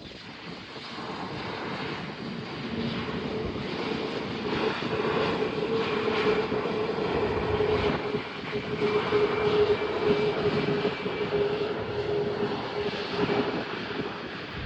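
Airliner engines passing close: a steady drone with a held tone that grows louder to its peak about two-thirds of the way through, then eases a little near the end.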